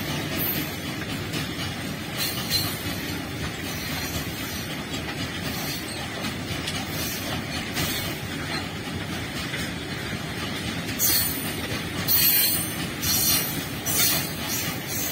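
Loaded open-top freight wagons rolling past on the rails: a steady rumble and rattle of wheels, with several short high-pitched squeals, loudest between about eleven and fourteen seconds in.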